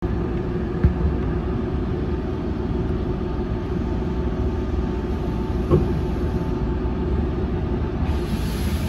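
Semboku Rapid Railway 5000 series electric train running, heard from inside just behind the cab: a steady low rumble with a faint steady hum, and two single sharp knocks, one about a second in and one near six seconds.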